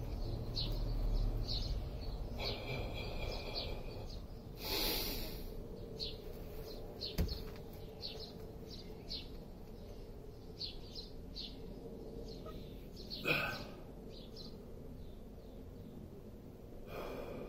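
Small birds chirping: short, high chirps repeating on and off over steady outdoor background noise. A low rumble in the first couple of seconds, and two short bursts of noise, about five and thirteen seconds in.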